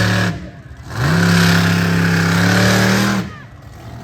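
Monster truck engine revved in bursts: one rev is let off just after the start, then the engine climbs quickly to a high, steady pitch, holds it for about two seconds and drops away.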